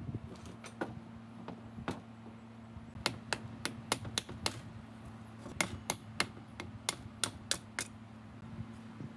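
Sharp taps or knocks in two runs of about six or seven, roughly three a second, over a steady low hum.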